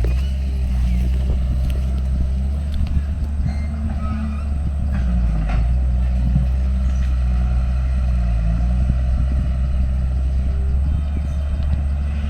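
Diesel engine of heavy earthmoving machinery running under load, its deep note rising and falling a little as the work goes on, with a few short metallic knocks.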